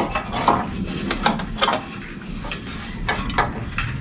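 Irregular light metal clicks and knocks as an old ignition coil on a Scag walk-behind mower engine is wiggled and worked loose by hand.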